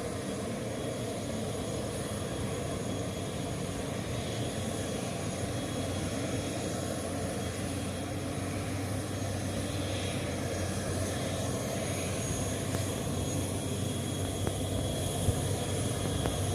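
Turboprop airliner engine running steadily on the apron: an even drone with a low hum beneath it, growing slightly louder toward the end.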